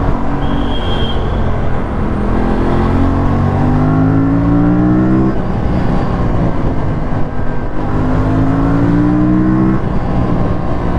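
Aprilia RS457's 457 cc parallel-twin engine and exhaust pulling under acceleration while riding. The revs climb twice and drop off abruptly, about five and ten seconds in, as the throttle is rolled off or a gear is changed.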